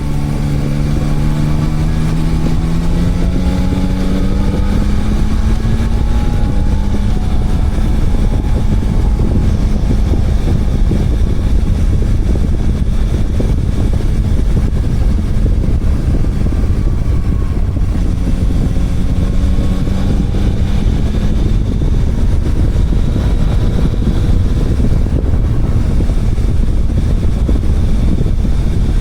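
Motorcycle engine running under way, its pitch rising as it accelerates over the first few seconds and again about two-thirds of the way through, over heavy wind noise on the microphone.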